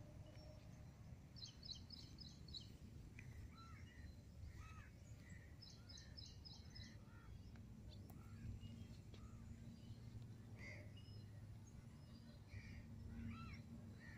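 Faint wild birds calling: two short, rapid trills of high notes, one about a second and a half in and another about six seconds in, among scattered short chirps, over a low steady background rumble.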